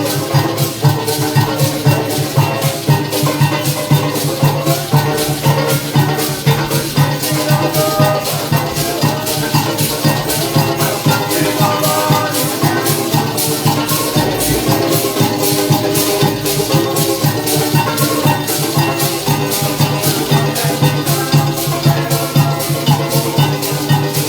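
Parang band playing a lively Christmas piece, with pitched instruments over a steady shaken-maraca and drum beat.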